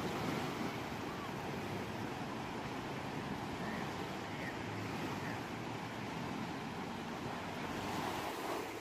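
Ocean waves breaking and washing on a shore, a steady continuous surf sound.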